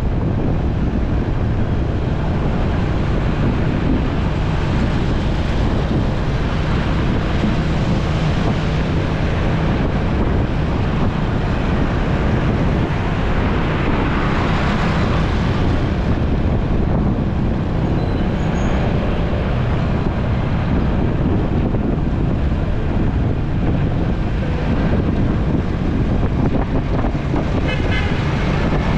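Wind rushing over the microphone and a motorcycle engine running while riding in road traffic, with a swell of passing-vehicle noise about halfway through and a short horn toot near the end.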